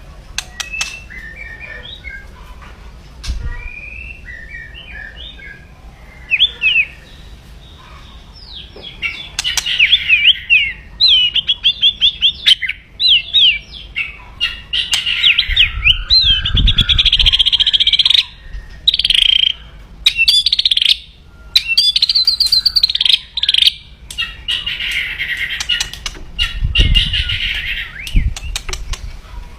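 A white-rumped shama (murai batu) gives soft chirps at first. From about a third of the way in, it breaks into loud, rapid rattling 'kretekan' phrases and fast sweeping trills, an aggressive call. There are a couple of low thumps, one near the middle and one near the end.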